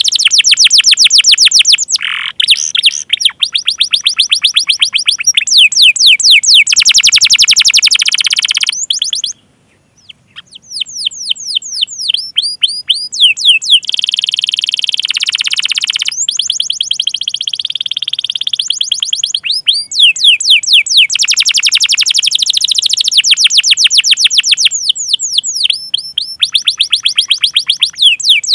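Domestic canary singing a long song of fast trills: trains of rapid repeated whistled 'cuit cuit' notes and rolls, changing from one note type to the next every second or two, with a brief pause about a third of the way in.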